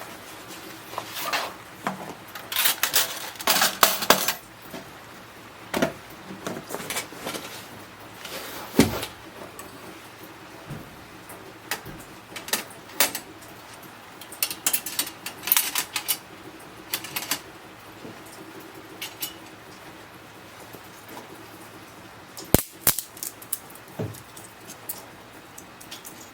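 Cooking gear being handled: intermittent clinks, knocks and clatters, busiest about three to four seconds in, with sharper knocks near nine seconds and again about twenty-three seconds in.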